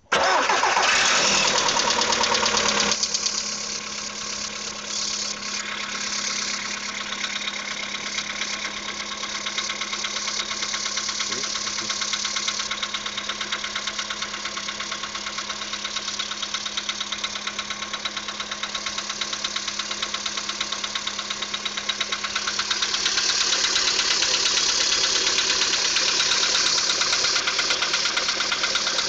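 Cold engine running with a fast, regular knock, heard soon after its pistons were replaced. It comes in suddenly and is louder for the first three seconds, settles, then grows louder again about 22 seconds in.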